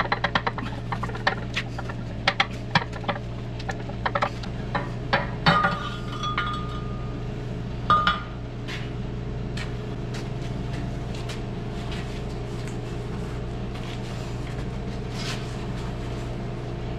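Rapid metallic clinks and taps on a cylinder liner being seated in the CAT D4D engine block, with a short metallic ring about five and a half seconds in and again at eight. After that only a steady low hum and a few light clicks remain.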